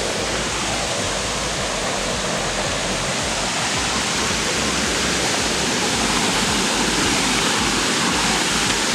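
Waterfall rushing, a steady loud roar of falling water with no break or change.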